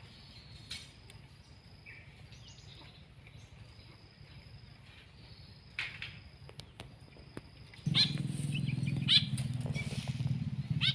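Small pet songbirds giving short, scattered chirps and calls. About eight seconds in, a louder low, steady hum starts suddenly and runs under the calls.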